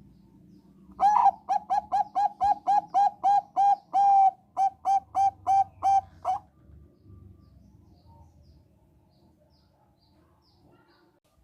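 Zebra dove (Thai-bred perkutut bangkok) singing: a rapid string of about eighteen short, clear coo notes at roughly three a second, one held a little longer midway, stopping about six seconds in.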